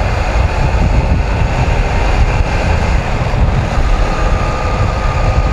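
1982 Honda CM250T's air-cooled parallel-twin engine running steadily under way while climbing a hill, with rumbling road and wind noise on the mic.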